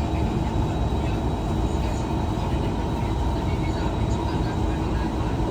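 Kawasaki–Kinki Sharyo C151 metro train running between stations, heard from inside the carriage: a steady low rumble of wheels on rail with a faint continuous whine.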